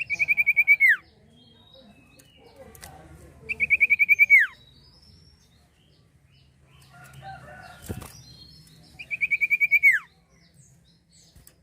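A small songbird, the Indonesian 'sirtu', singing three fast trills of about ten notes each, every trill ending in a quick falling slur, spaced a few seconds apart. A single sharp knock comes just before the third trill.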